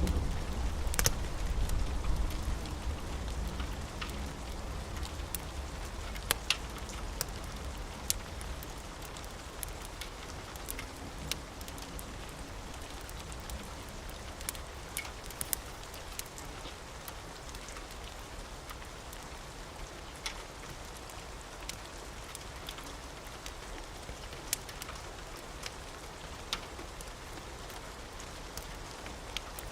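Steady rain hiss mixed with a wood fire crackling in sparse, sharp pops. A low rumble fades away over the first few seconds.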